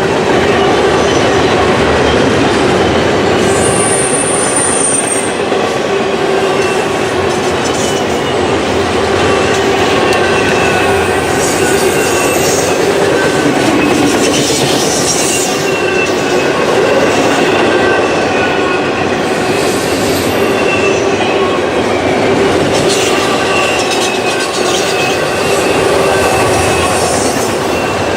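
Freight train cars rolling steadily past, with wheels squealing in several thin, wavering tones over a continuous rumble of wheels on rail.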